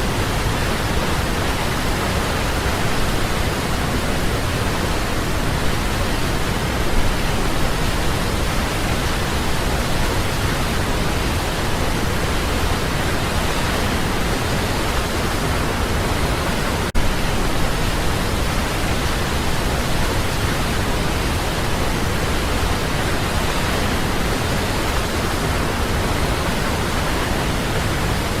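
Waterfall: water falling and rushing in a steady, dense roar of white noise, with a split-second dropout about two-thirds of the way through.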